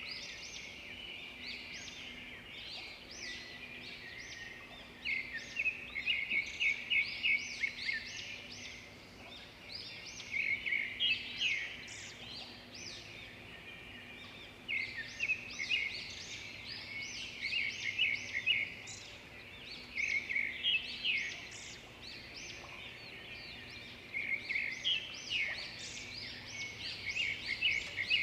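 Songbirds singing: bouts of rapid, high chirping notes a few seconds long, coming again and again with short lulls between them.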